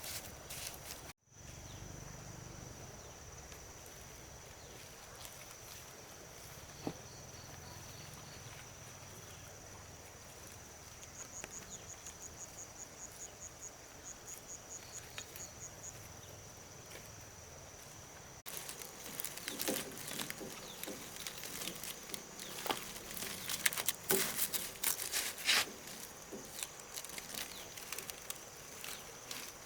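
Insects trilling steadily outdoors, with bursts of rapid pulsed chirping midway. About two-thirds of the way in, irregular clicks and rustling join in.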